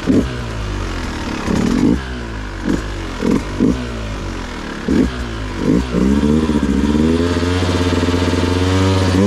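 Dirt bike engine revving in short, sharp throttle blips, about eight in the first six seconds, then held at a steadier, higher note.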